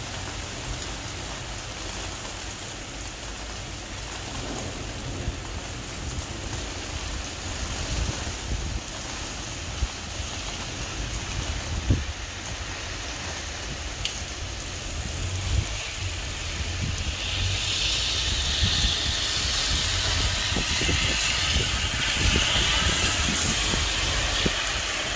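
Heavy rain pouring down on a wet street, with wind rumbling on the microphone. The downpour grows louder and hissier about two-thirds of the way through.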